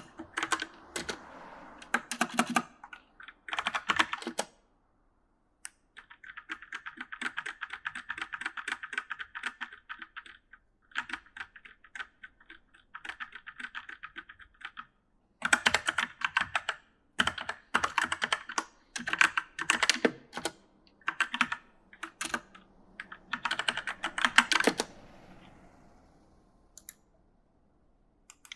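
Typing on a mechanical keyboard: quick runs of key clicks, with short pauses between them. The runs in the second half are louder and more clattery.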